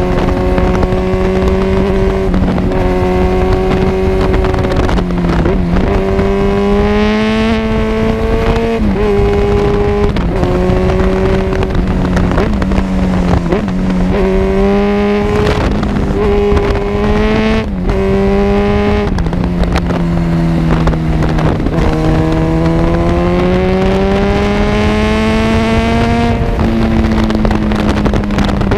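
Kawasaki Z1000 inline-four running through an Arrow full-system exhaust under way. The engine note climbs steadily, then drops sharply at each shift, again and again, with a couple of sharp cracks about halfway through.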